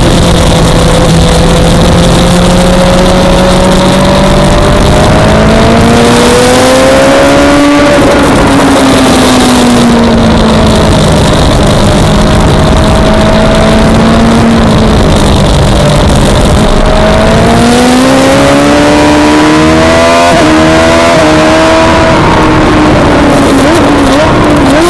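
Suzuki GSX-R600 inline-four engine at racing speed, heard on board over heavy wind noise. The revs climb, drop sharply about a third of the way in, then climb again with quick upshifts near the end.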